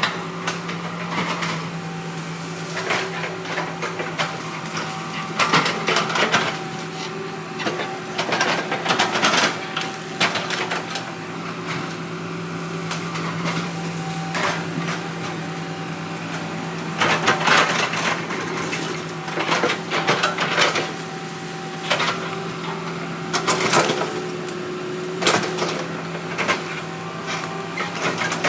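Heavy earth-moving machine's diesel engine running steadily, with repeated cracking, splintering and knocking of wooden logs being handled and crushed.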